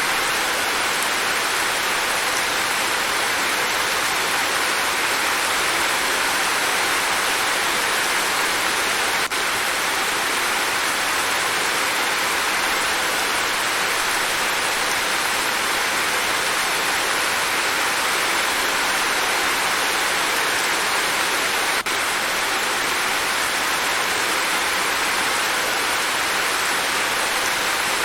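Steady monsoon rain falling: an even, unbroken hiss with no single drops standing out.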